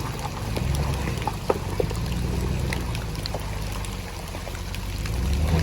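Chevrolet Suburban's engine running at low speed while driving through muddy water, with water sloshing and scattered small ticks and knocks.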